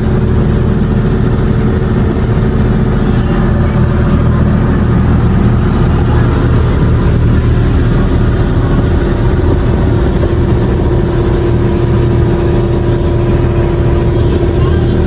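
A boat's engine running steadily at cruising speed: a constant low rumble with a steady hum above it.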